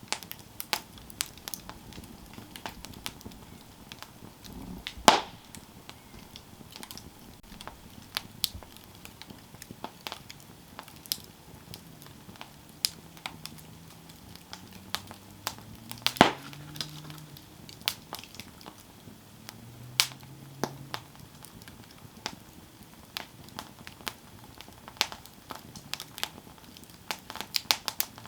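Campfire burning, its wood crackling with frequent small snaps and a few louder pops, the loudest about five seconds in and about sixteen seconds in.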